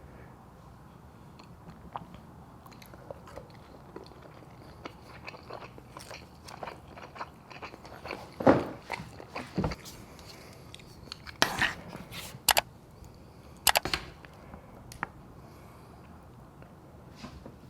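A person eating close to the microphone: quiet chewing with scattered small clicks, and a few louder sharp mouth and eating sounds in the middle stretch.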